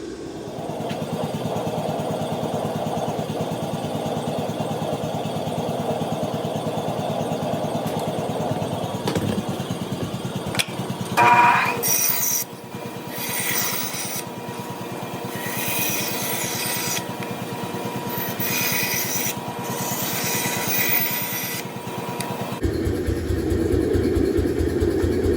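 Metal being abraded while a forged knife blade is shaped: a steady running noise, then from about halfway a series of scraping strokes, each about a second long, over a faint steady tone. Near the end the sound changes to a low, rhythmic pulsing.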